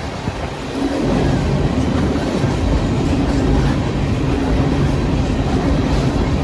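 Train running by: a steady loud rumble, with a low steady hum setting in about a second in.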